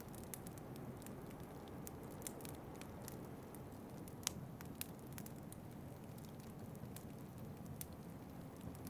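Wood fire in a fireplace crackling: irregular sharp pops and snaps, one louder pop about midway, over a steady low rumble.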